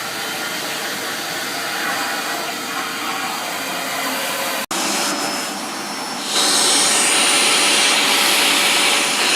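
Vacuum cleaner running steadily with a faint whine. It breaks off for an instant about halfway through, then comes back louder and hissier for the last few seconds.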